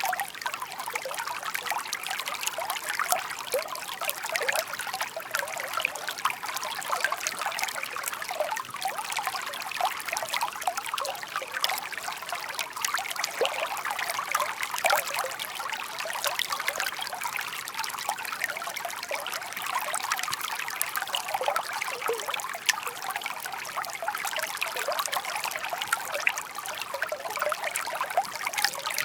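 Shallow park stream babbling and trickling over stones, a steady run of small splashes and gurgles.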